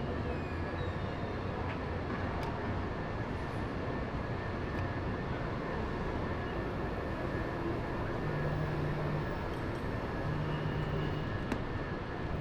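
Steady traffic noise of a busy street, an even rumble with no single vehicle standing out.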